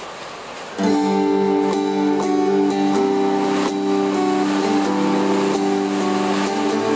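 Rain hiss, then about a second in an acoustic guitar starts strumming chords steadily, the rain still faintly under it.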